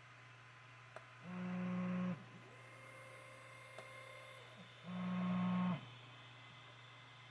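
Stepper motors of a budget 3D printer moving its axes: two loud whining runs of about a second each, with a quieter, higher whine ramping up and down between them, over a steady electrical hum.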